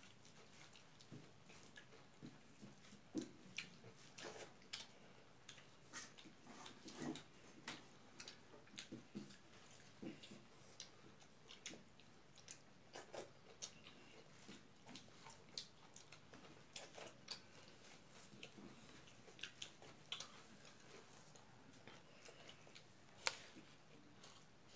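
Mukbang eating sounds: chewing, lip smacks and fingers working rice and singju, a Manipuri salad, on the plates, heard as irregular soft clicks and smacks a few times a second, with one sharper click about a second before the end.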